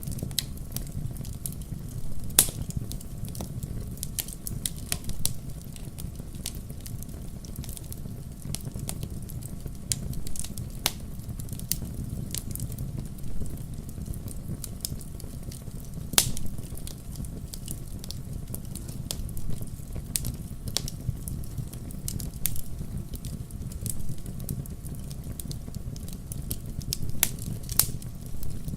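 Wood fire crackling in a fireplace: a steady low rumble of burning with irregular sharp pops and snaps, a few louder ones standing out.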